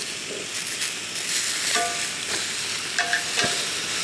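Steak and zucchini sizzling steadily in a hot cast-iron grill pan, with metal tongs clicking against the pan a few times as the pieces are moved.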